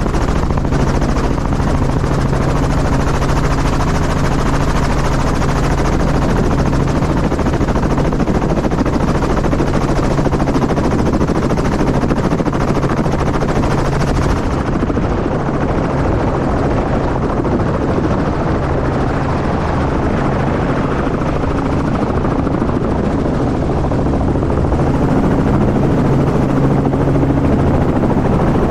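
Helicopter running with a steady rotor and engine drone and no break, getting slightly louder near the end.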